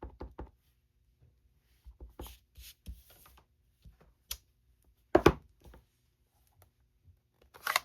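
Light clicks and taps of rubber-stamping on a craft table: a stamp being inked on a black ink pad and pressed onto cardstock, with one sharper knock about five seconds in.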